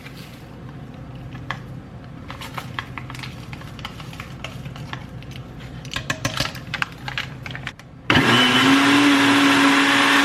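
Light clinks and rattles of kitchenware, then about eight seconds in an electric blender switches on and runs loudly, its motor pitch rising briefly before holding steady.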